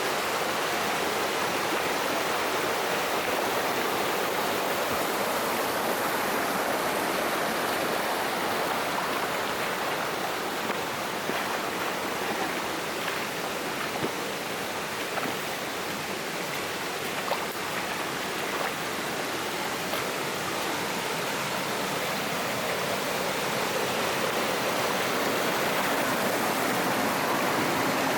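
Mountain stream flowing over rocks: a steady rushing of water, with a few faint small knocks.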